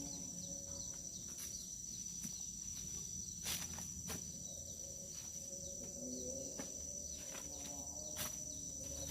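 Insects chirring in a steady high-pitched drone over quiet rural ambience, with a few sharp clicks about three and a half seconds in, just after four seconds, and past eight seconds.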